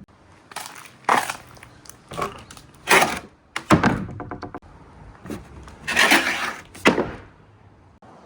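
Marbles rolling down a stepped slope toy, a string of clacks and knocks as they drop from tier to tier, with a quick run of even clicks about four seconds in.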